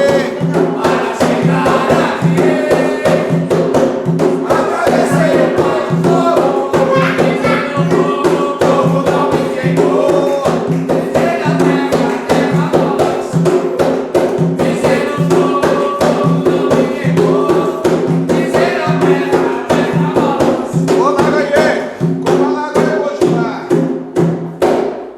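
A group of voices singing a Portuguese ritual chant over fast, steady hand drumming, which stops abruptly at the end.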